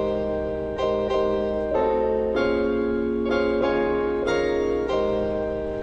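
Slow, soft piano or keyboard chords, each held about half a second to a second before the next.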